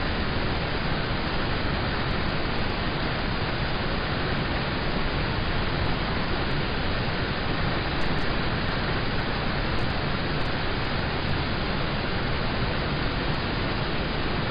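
Steady rain on a car, heard from inside the cabin: an even hiss with no single drops standing out.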